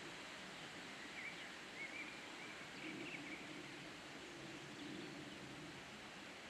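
Faint bird chirps over a steady outdoor hiss, with a few short calls clustered in the first half.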